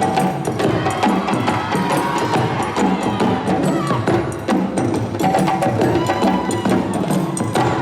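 Parade percussion band playing a steady, driving rhythm of drums with sharp, high clicking strikes marking the beat.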